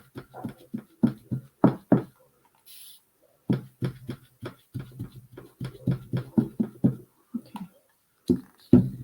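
Brush dabbing on the wooden birdhouse to texture the paint: quick taps, about three to four a second. A pause near the middle holds a short hiss from the mister spray.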